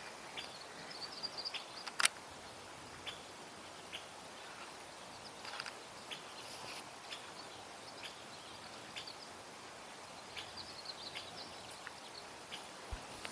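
Quiet outdoor background with faint, high bird chirps twice, and scattered small clicks, one sharper click about two seconds in.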